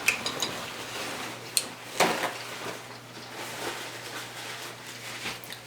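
Mealtime handling noise: a few sharp clicks and knocks of utensils against dishes, the loudest about two seconds in, over soft rustling and eating sounds.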